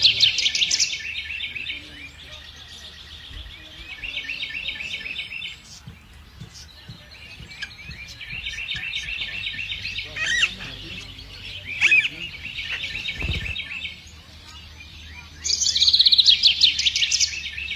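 A songbird singing phrase after phrase of rapid trills of quick repeated notes. The phrases are loudest at the start and again near the end.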